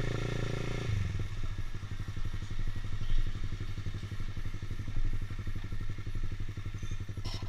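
Honda CBR150R's single-cylinder engine running at low, steady revs, its sound thinning slightly about a second in.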